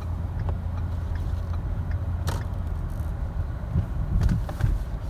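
Car driving slowly on a snow-covered road, heard from inside the cabin: a steady low rumble of engine and tyres, with a sharp click about two seconds in and a few soft knocks near the end.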